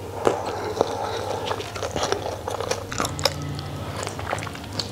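A person chewing a mouthful of crunchy food close to the microphone, with a steady run of small crisp crackles and mouth clicks.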